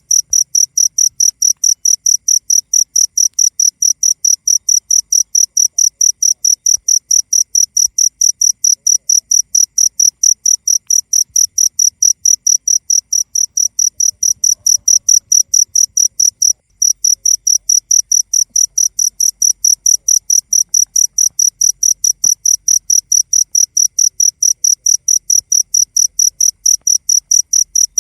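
Cricket chirping in rapid, evenly spaced, high-pitched pulses, loud and unchanging, with one brief break about sixteen seconds in.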